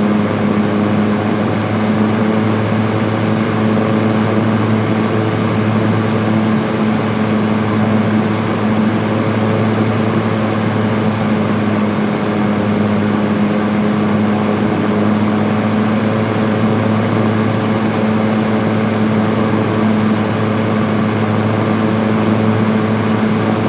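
Electric fan running steadily on high speed, with a constant motor hum under the even rush of air.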